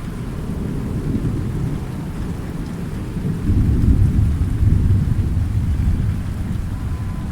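Thunder rumbling low and long over steady rain. It swells to its loudest about halfway through, then eases.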